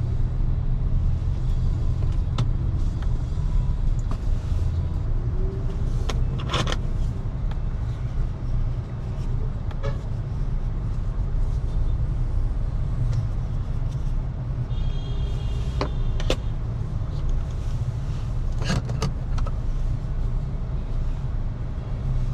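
Steady low rumble of tyre and road noise from a BYD Seagull electric car driving on a city road, with a few sharp clicks scattered through.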